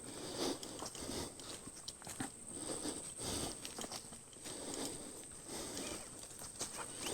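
Footsteps on a dirt trail: soft, uneven steps about once a second, over a faint steady high-pitched tone.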